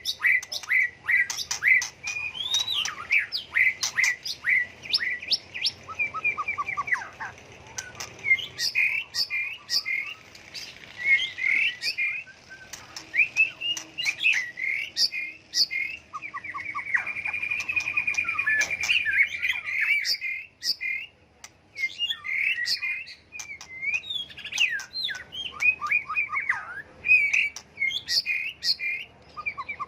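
White-rumped shama singing a long, varied song of clear whistles, chirps and fast trills, switching phrases constantly, with a sustained rapid trill about halfway through.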